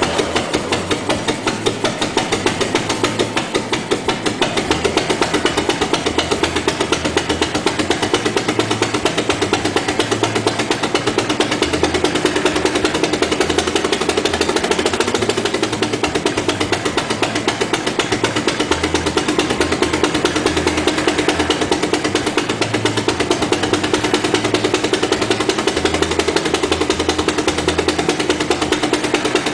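1960 Land Rover Series II four-cylinder petrol engine idling steadily in an open engine bay with bonnet and radiator off. It is running, but not very well.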